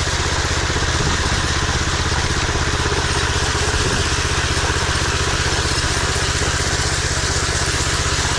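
Ride-on power trowel's engine running steadily at a constant pitch while its blades burn down (hard-trowel) the concrete slab on the final finishing pass.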